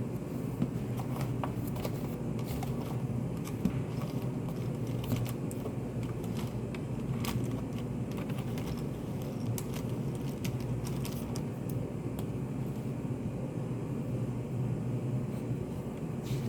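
Study café ambience: a steady low hum with scattered small clicks and taps throughout.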